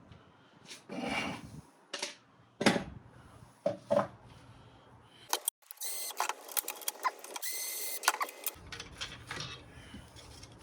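Metal saw parts being handled, with a series of separate knocks and clicks, then about halfway through a small motor runs steadily for about three seconds before more clicks.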